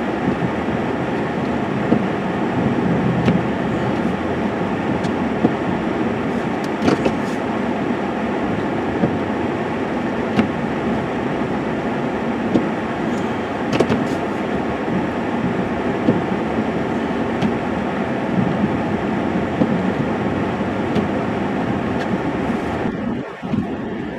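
Snow-plow truck running steadily while it pushes deep, heavy snow off a driveway, with occasional short knocks and clunks. The noise drops off shortly before the end.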